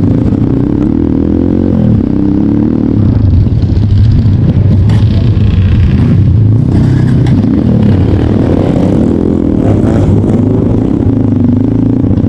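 Trail motorcycle engine running under load, its revs rising and falling again and again.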